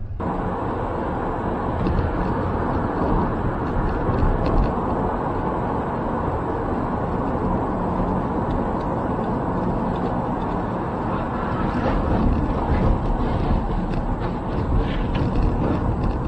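A vehicle on the move: a steady rushing noise of engine, road and wind, with a few faint clicks in the second half.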